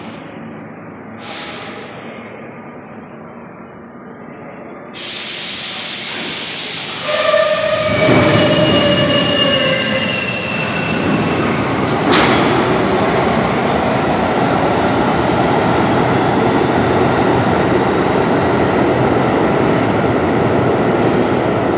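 R32 subway train coming in and running past: fairly quiet at first, then a short horn blast about seven seconds in, followed by the loud, steady rumble and rail noise of the cars going by.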